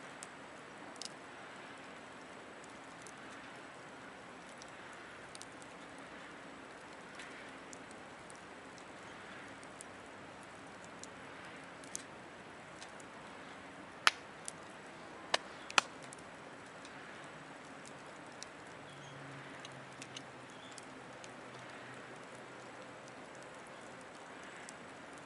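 Wood campfire crackling in a Picogrill 760 folding fire pit: scattered small pops and ticks over a steady hiss, with three sharp loud pops in quick succession about two-thirds of the way through.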